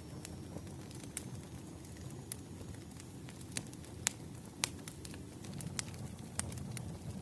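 Wood fire crackling: irregular sharp pops and snaps over a low steady rumble, the loudest pops a little past the middle.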